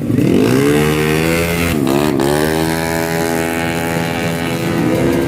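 Drag-racing motorcycle engine accelerating hard. Its pitch climbs, drops sharply and briefly about two seconds in like a gear shift, then climbs steadily again.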